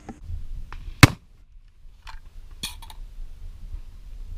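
Firearm and gear handling: one sharp click about a second in, then a few small clicks and rattles.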